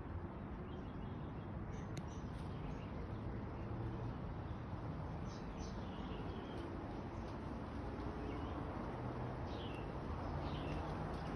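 A few faint, short bird chirps, each sliding down in pitch, scattered over a steady low background noise, with a single sharp click about two seconds in.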